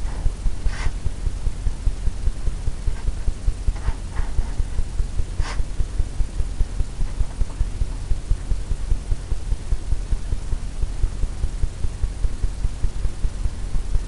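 A steady low hum that throbs several times a second, with a few short scrapes, the loudest about five seconds in.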